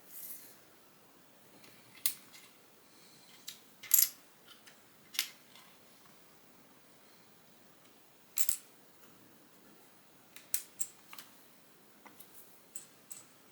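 Plastic Lego pieces clicking and snapping as they are handled and pressed together: about a dozen sharp, separate clicks at irregular intervals, the loudest about four seconds in.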